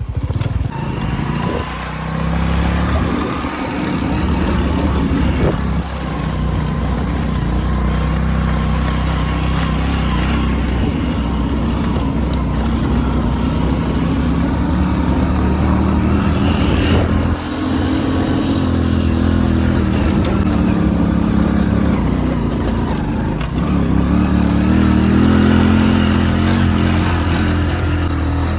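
Motorcycle engine running while riding, its pitch rising and falling with the throttle, with a brief dip about two-thirds of the way through and harder running near the end.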